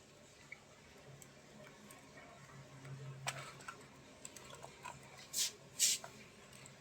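Budgies ticking and tapping about, likely with their beaks: faint, irregular light clicks, with two short, louder rustling bursts near the end.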